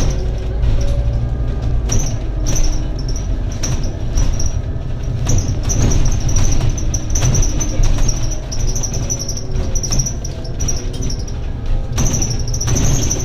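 Interior sound of a Scania N280UD double-decker bus running on compressed biogas while under way: a steady low rumble with engine tones that slide up and down. Over it, a high chirping squeak repeats throughout, from fittings or panels in the cabin.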